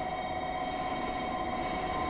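EH500 electric locomotive hauling a freight train, approaching and growing steadily louder: a low rumble with steady high-pitched tones over it.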